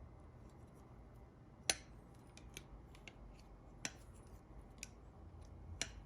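Lisle exhaust hanger removal pliers being handled, giving a few sharp metal clicks of the kind scissors or pliers make. The loudest click comes about a second and a half in, with others near four, five and six seconds.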